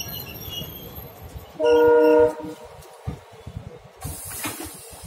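Passenger train coaches rolling past, their wheels clattering in quick knocks over the rail joints. About a second and a half in, a short, steady train horn blast sounds for under a second and is the loudest thing heard.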